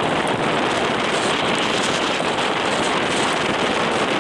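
Steady rushing noise of a river in flood after a typhoon, with its high, fast water churning under a bridge.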